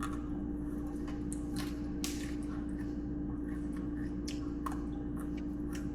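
Someone chewing food close by: irregular small wet clicks and crunches, over a steady low hum.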